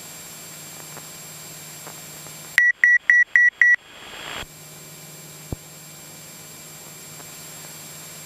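Five quick, loud, high-pitched electronic beeps at about four a second, over the steady cabin noise of a Cessna 172SP in flight. A short burst of hiss follows and cuts off suddenly, then a single click.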